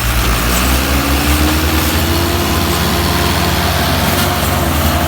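Heavy vehicle engine running steadily with a deep hum; its pitch rises gradually over the first couple of seconds and then holds.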